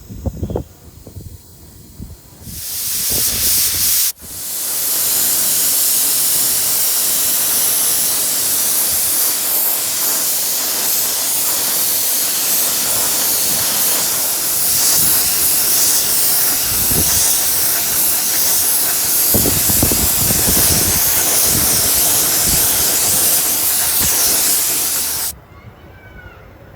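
A steady, loud spraying hiss from a pressurised spray. It starts a couple of seconds in, stops briefly about four seconds in, then runs unbroken for about twenty seconds before cutting off near the end. A few low knocks come before it starts.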